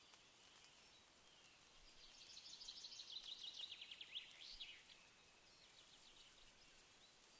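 A songbird singing faintly: a fast run of repeated high notes lasting about three seconds that ends in a quick downward flourish, with a few scattered notes afterwards, over a steady faint hiss.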